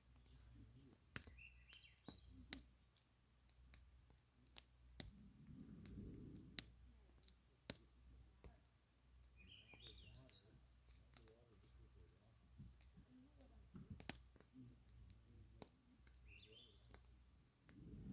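Campfire crackling faintly: scattered sharp pops and clicks from burning wood, irregular and a few per second at most.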